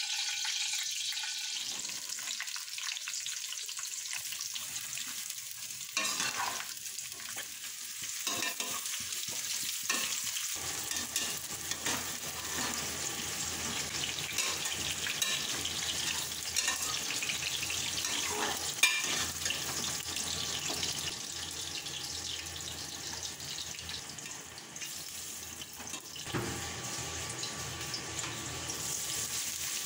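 Sliced bitter gourd sizzling as it fries in hot oil in a metal karahi. A metal spoon and a wire skimmer scrape and clink against the pan now and then as the slices are stirred and lifted out.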